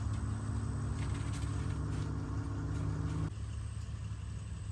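An engine running steadily with a low hum; a higher steady tone over it cuts off suddenly about three seconds in.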